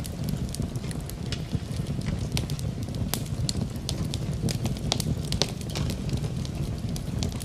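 Wood fire in a fireplace crackling, with frequent irregular sharp pops over a steady low rumble, mixed with steady rain.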